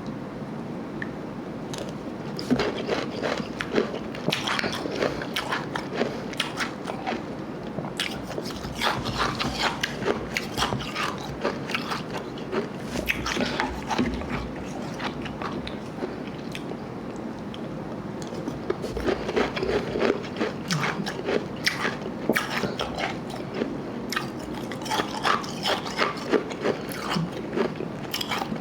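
Close-up chewing and crunching of ice, a mix of soft slush ice and harder ice: dense runs of crisp crunches, easing off for a couple of seconds about halfway through.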